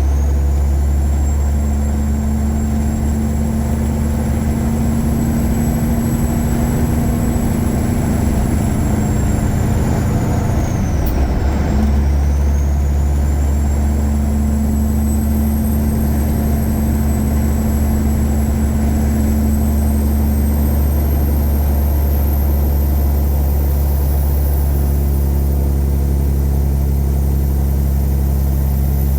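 Caterpillar 3406E inline-six turbo diesel pulling a truck down the road, with a steady low engine drone and a high turbo whistle. About eleven seconds in, the engine note and the whistle briefly drop away, then pick up again and climb.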